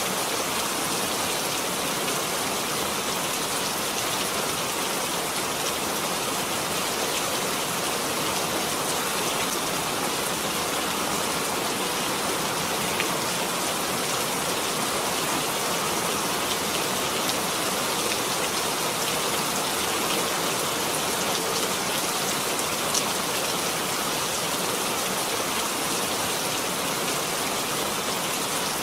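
Steady rain falling, an even hiss with the odd louder drop standing out.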